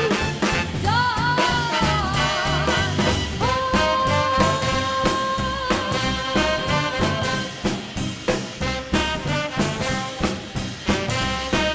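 Live swing band playing an instrumental passage: the horn section, with saxophones, trumpet and trombone, holds long notes with vibrato over drums and upright bass.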